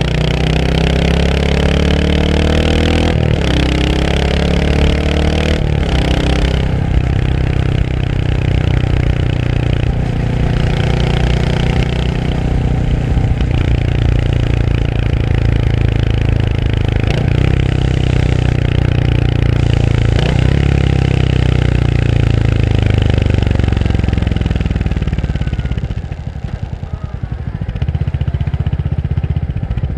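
Royal Enfield Hunter 350's 349 cc single-cylinder engine pulling up through the gears, its pitch rising with two brief breaks for upshifts in the first six seconds, then running steadily at cruise. Near the end the engine note falls away and goes quieter for a couple of seconds before picking up again.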